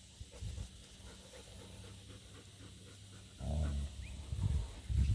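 Dog panting close by: a run of low breaths that starts about three and a half seconds in, over a faint steady hum.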